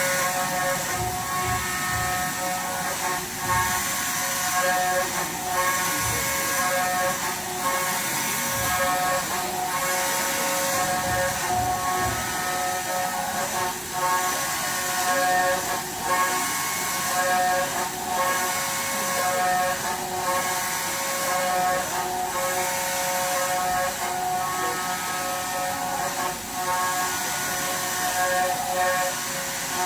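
CNC machine running a cut: a steady whine of several held tones with a hiss over it, unchanging throughout.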